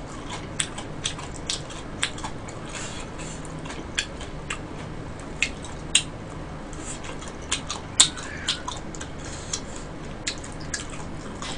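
Close-miked eating sounds: chewing stir-fried sundae and gopchang, with irregular sharp wet mouth clicks and chopstick taps, over a faint low hum.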